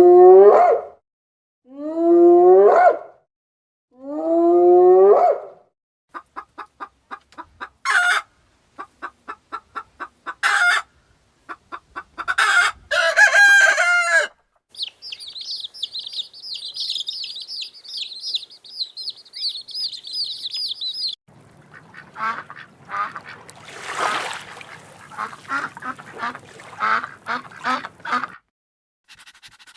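A run of bird calls: three long rising honk-like calls, then rapid clucking and short calls, then a high warbling song for several seconds, then a busier mix of calls.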